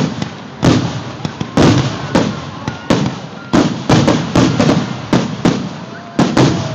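Fireworks bursting in quick succession: about a dozen sharp bangs, each trailing off in a rumbling echo.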